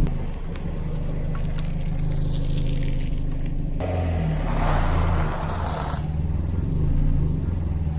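Car engine running at low speed with a steady low hum, joined about halfway through by a stretch of rougher, noisier sound.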